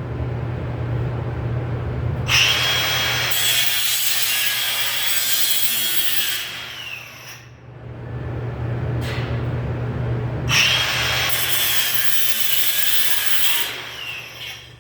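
A power tool run twice, each time for about four to five seconds, its motor whining down in pitch as it is released. A steady low hum runs underneath.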